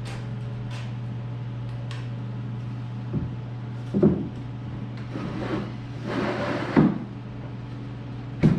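Plywood cabinet parts being handled: four sharp wooden knocks and a stretch of scraping, over a steady low electrical hum.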